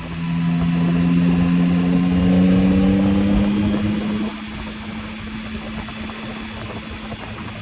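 Yamaha MT-09's inline three-cylinder engine pulling under throttle, getting louder and rising slowly in pitch for about four seconds. It then eases off to a steadier, quieter running note, with wind noise throughout.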